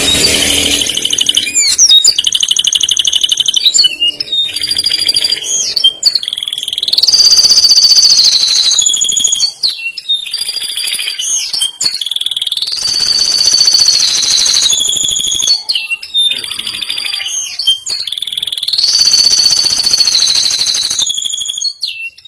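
Male domestic canary singing loud, high-pitched song: long rolling trills and held whistled notes, with phrases repeating about every six seconds. The song stops near the end.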